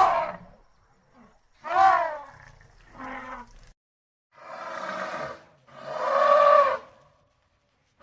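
Elephant trumpeting: a series of about five separate calls in a row, with short pauses between.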